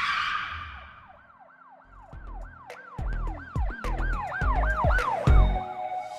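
Produced intro sound effect: a whoosh, then a siren-like wail that rises and falls about three times a second over heavy bass thumps.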